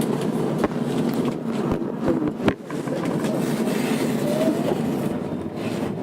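Tokyo Metro 02 series subway car running, heard from inside: steady wheel and rail noise with a few sharp clicks in the first half. About four seconds in, a thin whine glides upward in pitch, typical of the IGBT-inverter traction motors.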